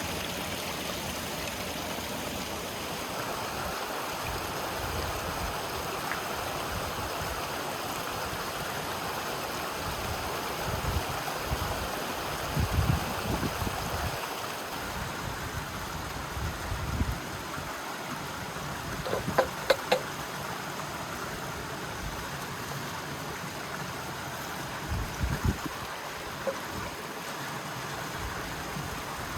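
River water rushing steadily, with a few dull low thumps scattered through and a short run of clicks about two-thirds of the way in.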